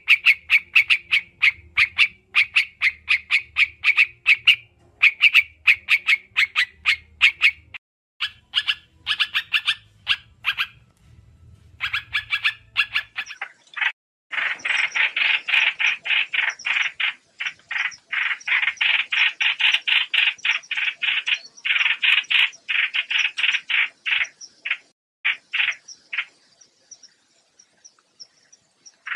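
Trao trảo bird calls from a trapping lure recording: long runs of short notes repeated rapidly in a chattering trill, with brief pauses. About halfway through the notes come back louder and fuller.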